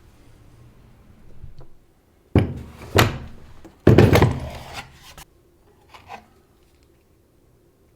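A few heavy knocks, about two and a half and three seconds in, then a longer scraping clatter that dies away over about a second, with a couple of light taps after it.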